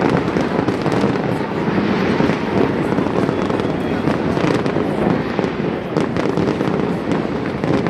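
Fireworks display: a dense, continuous run of bangs and crackles with no pause and no single louder blast.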